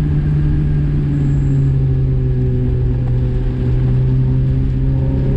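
Car engine running at a steady, fairly constant speed, heard from inside the cabin as a loud even drone with low road rumble, its pitch drifting only slightly.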